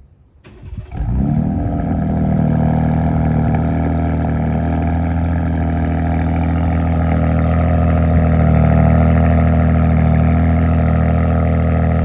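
Ram Rebel GT pickup engine cold-starting: a brief crank about half a second in, catching and flaring up within a second, then idling steadily and loudly.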